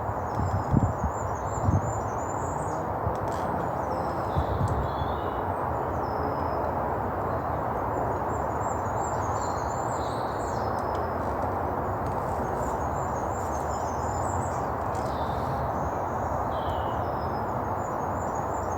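Small birds singing and chirping in woodland, over a steady rumble of distant road traffic. A few low thumps come in the first couple of seconds.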